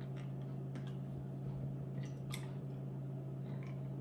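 Wet mouth sounds of someone chewing a soft Ramune-soda gummy candy: a few faint smacks and clicks, scattered and irregular, over a steady low hum.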